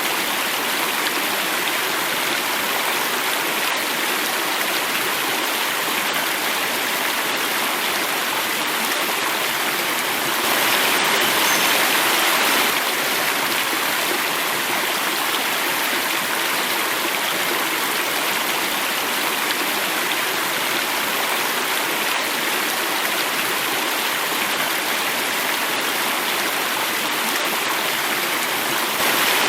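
Water flowing and cascading in a steady rush, a little louder and brighter for about two seconds some ten seconds in.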